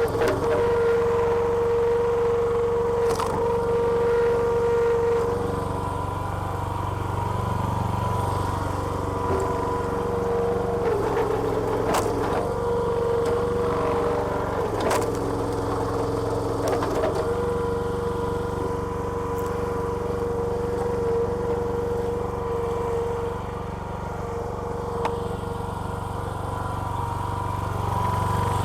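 Small petrol engine of a hydraulic log splitter running steadily, with a hydraulic pump whine that comes and goes every few seconds as the ram works. A few sharp cracks stand out along the way.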